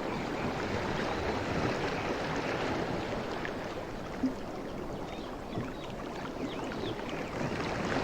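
Sea waves washing in a steady rushing wash, with a short low thud about four seconds in and the next swell building near the end.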